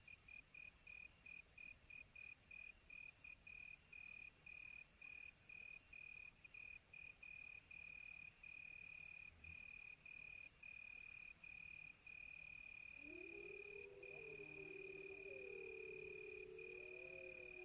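Cricket chirping in a fast, even pulse, the pulses lengthening into longer trills with short gaps. About thirteen seconds in, several wolves start howling: long overlapping howls that rise and fall.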